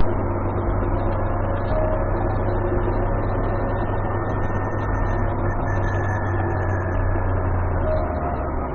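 Steady engine and road noise inside a car's cabin, picked up by a dashcam's microphone, with a low steady hum that drops away near the end.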